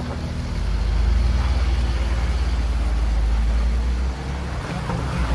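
Jeep engine running under throttle off-road. Its low drone swells about half a second in and drops back about four seconds in.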